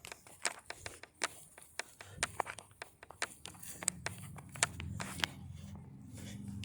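Footsteps and handling clicks, irregular and sharp, with a low steady hum that grows louder in the second half.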